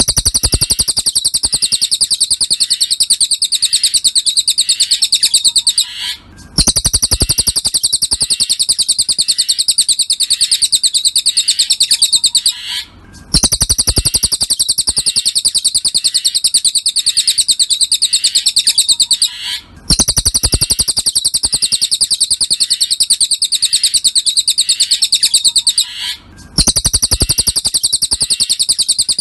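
Cililin bird singing a long, rapid, high-pitched trill in phrases of about six seconds, separated by short pauses.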